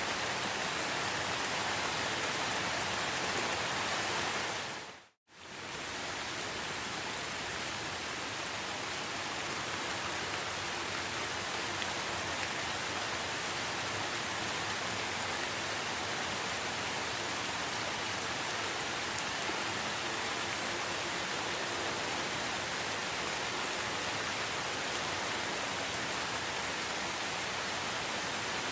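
Steady rainforest rain, an even hiss with no distinct drops or calls. About five seconds in it fades out to silence for a moment, then fades back in.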